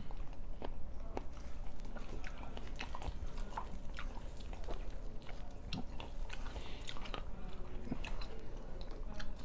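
A man biting and chewing a mouthful of egg-coated paratha close to the microphone, with many short mouth clicks throughout.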